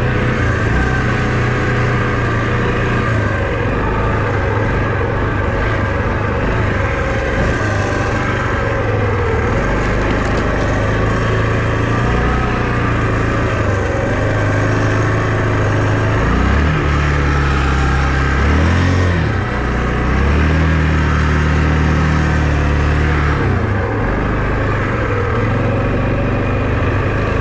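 Vehicle engine running continuously, with its pitch stepping up about two-thirds of the way through, dipping briefly and rising again, then dropping back near the end as the vehicle speeds up and slows.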